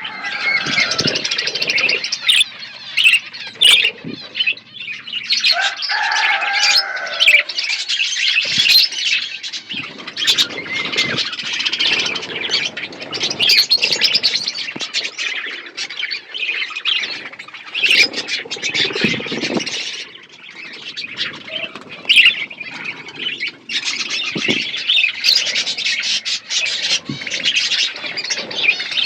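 Several budgerigars chattering and squawking without pause, a busy mix of high chirps and warbles broken by many short sharp clicks. A lower, drawn-out squawk comes about six seconds in.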